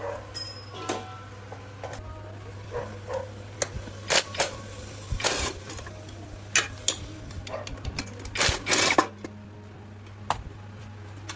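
Scattered metallic clicks and knocks, as of hand tools and engine parts being handled, over a steady low hum, with a short metallic ring near the start.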